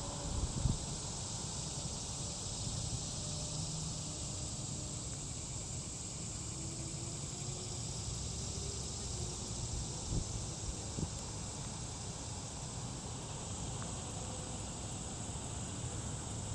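Steady high-pitched insect chorus over a low, continuous rumble that sounds like distant highway traffic, with a few small knocks.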